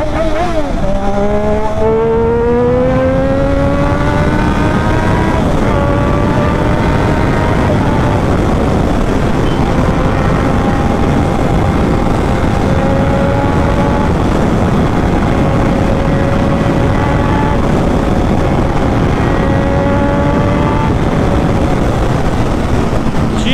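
Triumph Daytona 675R's three-cylinder engine under hard riding, with wind noise on the microphone. The revs climb for the first few seconds, drop at a gearshift about five seconds in, then hold fairly steady and high, easing slightly near the end.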